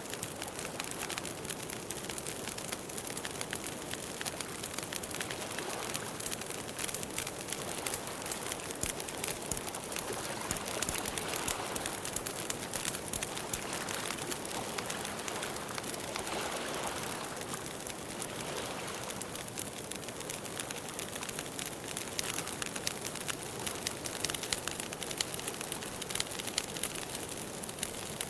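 Campfire crackling steadily, a dense run of small snaps over a hiss of burning wood.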